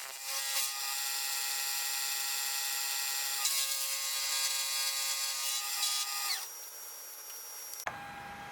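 Electric power tool running steadily at speed, then switched off and winding down about six seconds in. A sharp click follows near the end.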